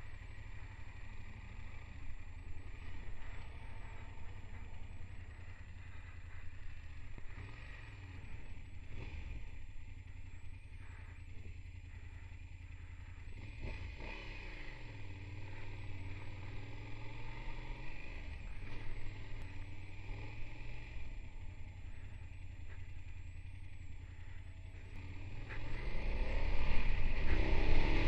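BMW F800GS motorcycle engine running at low revs, its pitch rising and falling now and then, then growing louder near the end as the bike accelerates.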